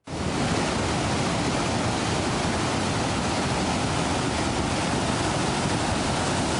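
Loud, steady rushing of water that starts abruptly, from the record-breaking heavy rain and flooding.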